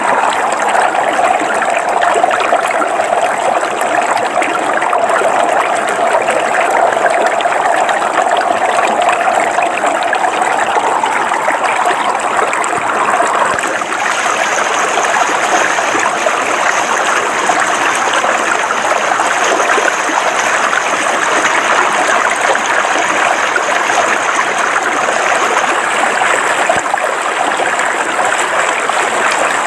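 Shallow river water flowing steadily over rocks, a continuous rushing and babbling. Its tone shifts slightly about halfway through.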